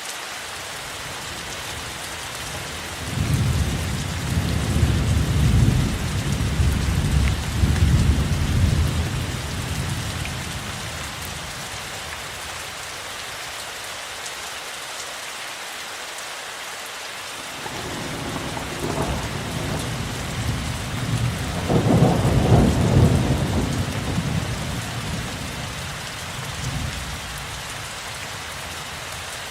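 Steady rainfall with two long, low rolls of thunder, the first a few seconds in and the second just past halfway, each swelling and then fading back under the rain.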